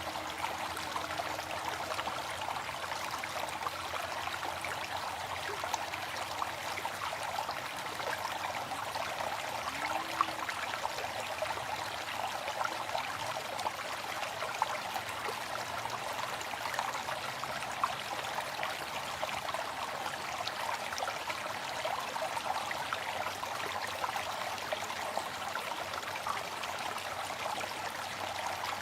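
Waterfall: water falling and splashing in a steady, unbroken rush, mostly hissing and splashing with little deep rumble.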